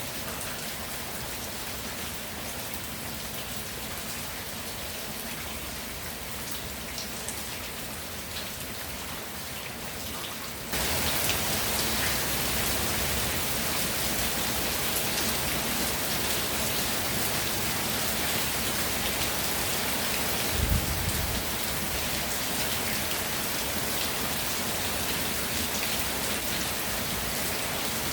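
Steady rain falling, which becomes suddenly louder about a third of the way through. About two-thirds of the way in there is a brief low thud.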